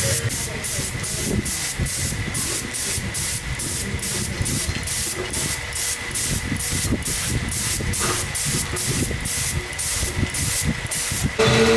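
Hissing in short, even strokes, about three a second, which stops abruptly near the end.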